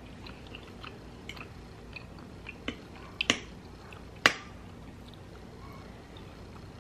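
Close-up eating sounds: chewing with small wet mouth clicks, and a few sharp clinks of a metal fork against the plate, the loudest a little after the middle.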